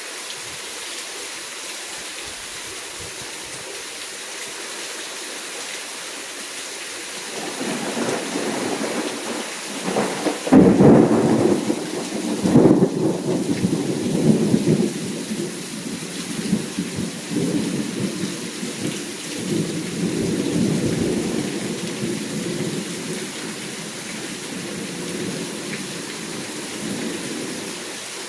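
Steady rain throughout a thunderstorm. Thunder starts rumbling about a quarter of the way in, cracks twice loudly just before the middle, then rolls on and slowly fades.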